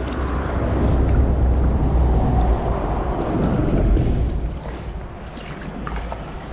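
Low rumbling noise of wind buffeting the microphone mixed with highway traffic on the bridges overhead, louder for the first four seconds, then easing.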